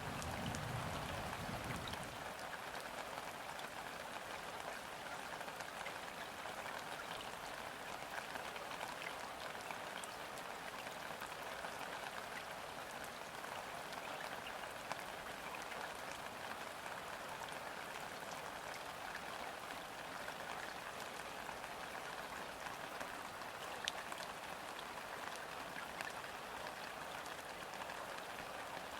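Steady rain falling on river water: an even, dense patter of drops with the odd sharper single drop. A low rumble fades out in the first two seconds.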